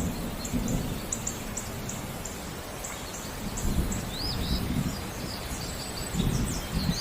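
Steady rain with low rumbles of thunder that swell several times, the last growing near the end, while birds chirp in short, high, quickly repeated notes.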